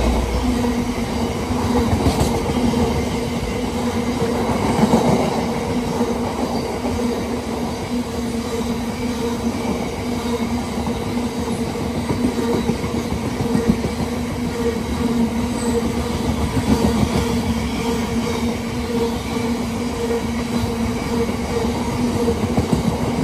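Long rake of biomass hopper wagons on a freight train rolling steadily past, wheels clattering on the rails, with a steady droning tone underneath throughout.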